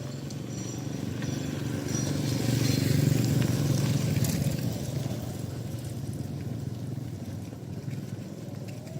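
A motor vehicle passing by: a low engine rumble grows louder to a peak about three seconds in, then fades away.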